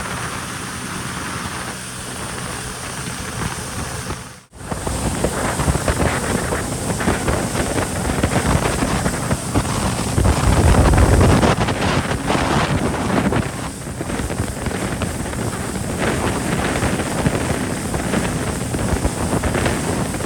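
Jet ski under way on a lake: wind buffets the microphone over the rush of water and the drone of the watercraft's engine. The sound cuts out for an instant about four seconds in, and the wind rumble is heaviest around the middle.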